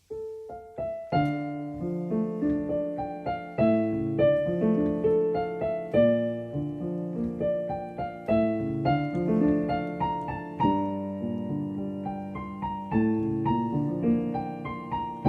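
Solo piano playing a melody over chords, the notes struck and left to ring.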